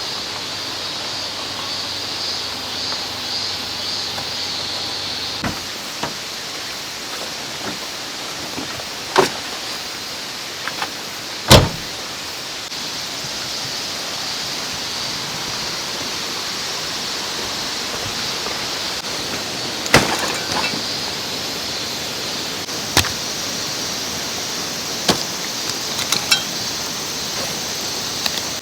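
Steady rushing of a mountain stream, with a dozen scattered sharp knocks and clicks; the loudest knock comes about eleven seconds in.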